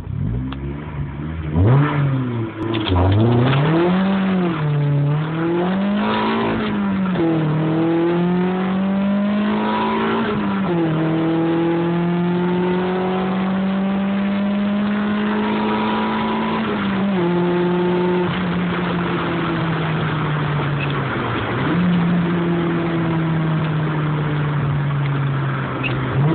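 Volkswagen Golf Mk2's chiptuned 2.0 16-valve ABF four-cylinder engine, breathing through a 4-2-1 manifold and a Group N exhaust with Sebring mid silencer and Remus end silencer, accelerating through the gears: the pitch climbs and drops back at each shift over the first ten seconds or so, then holds steady at speed, with brief dips about two-thirds of the way in and again later. The exhaust is too loud.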